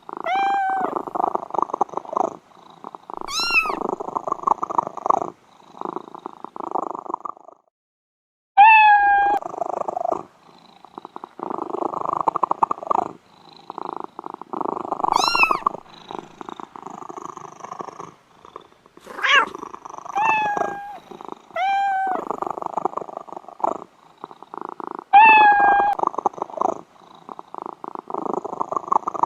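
Domestic cats purring steadily in a fast, rasping pulse, with short meows breaking in about eight times. Each meow rises and then falls in pitch. About a third of the way through, the sound cuts out completely for about a second.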